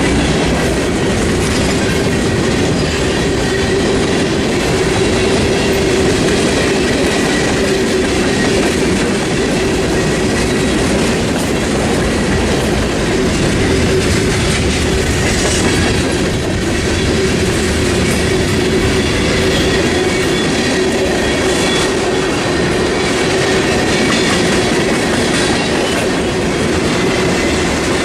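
A train's cars rolling steadily past with continuous wheel-on-rail noise, with a steady ringing tone running through it.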